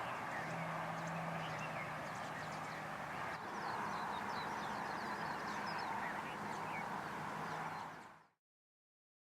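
Small birds chirping in many short, high calls over a steady background hiss and a low hum. The sound cuts off abruptly about eight seconds in.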